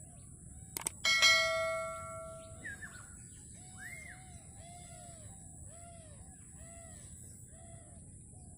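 A single metallic strike about a second in rings on like a bell and fades over a second or so. After it, a bird calls over and over in short arching notes, about one or two a second, over a steady high hiss.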